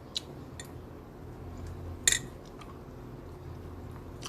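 Mukbang eating sounds: a few soft clicks and one sharper click about two seconds in, over a low steady hum.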